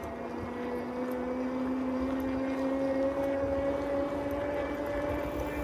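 A motor engine droning steadily, its pitch creeping slowly upward, over low road and wind noise.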